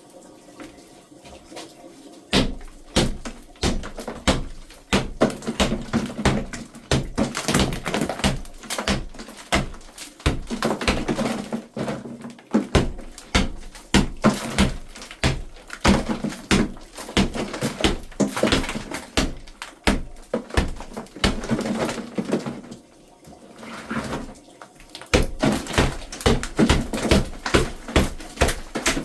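Repeated sharp hammer blows, two or three a second, stopping for about two seconds near the end and then going on.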